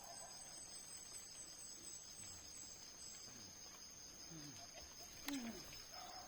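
Faint steady chorus of insects such as crickets, a continuous high chirring with no engine running, and a single sharp click about five seconds in.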